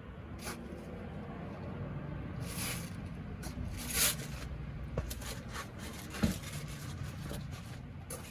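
Scattered clicks, scrapes and a few sharp knocks, as of tools and parts being handled, over a low steady hum; the loudest are a scrape about four seconds in and a knock a little after six seconds.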